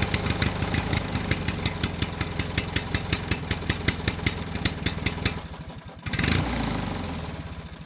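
Small engine running with a rapid, even ticking of about eight beats a second, which fades and stops about five and a half seconds in. A sudden noisy burst follows and dies away.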